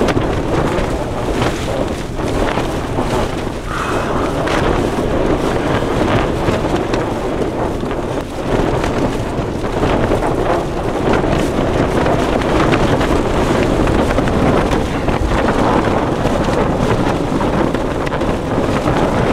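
Gale-force wind blasting across the microphone in loud, continuous gusts.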